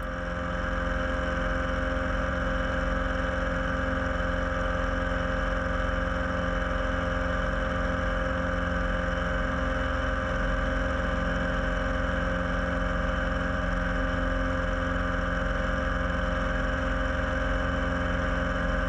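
Piper Super Cub floatplane's piston engine and propeller droning steadily in flight, with an even, unchanging pitch.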